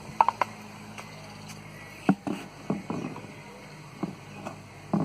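Irregular knocks and clunks, several sharp ones near the start and a louder spread about two to three seconds in, over a faint steady low hum.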